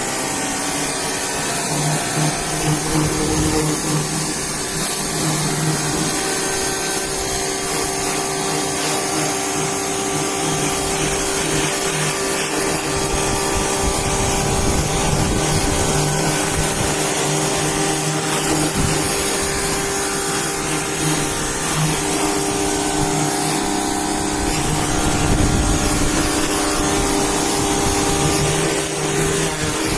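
Electric pressure washer running steadily: a motor hum under the hiss of the water spray, starting up at the very beginning.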